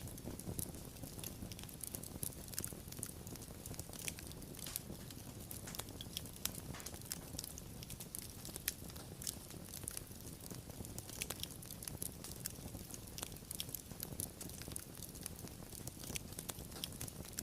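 Fire crackling, with many sharp, irregular snaps and pops over a steady low rumble of the flames.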